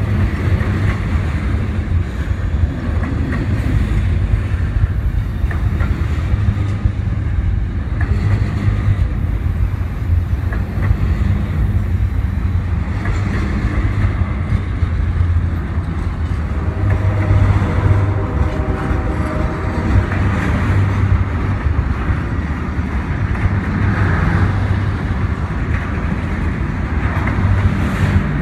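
A train running past, a steady loud low rumble with rail clatter.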